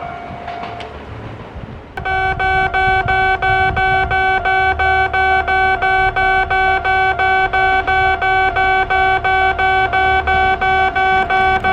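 A railway level-crossing alarm starts suddenly about two seconds in. It sounds the electronic two-tone ding of a Japanese crossing, striking evenly about four times a second. Before it, the fading noise of a train runs on.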